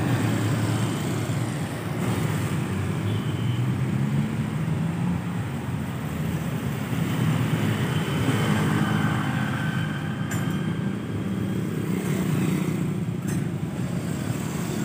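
Steady motor-vehicle rumble, a running engine with road traffic noise.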